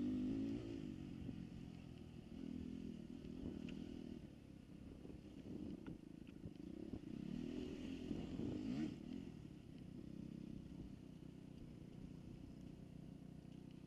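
Dirt bike engine running, its note swelling and fading as the throttle is worked, loudest near the start and again about eight seconds in.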